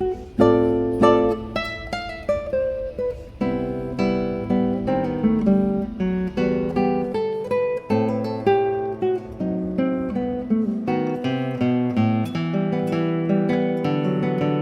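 Acoustic classical guitar music, plucked notes played in a flowing, steady run of several notes a second.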